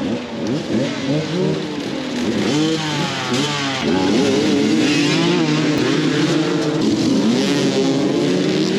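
Several dirt bike engines revving hard at once, their pitch rising and falling as they climb a steep hill under load; the sound grows louder and fuller about four seconds in.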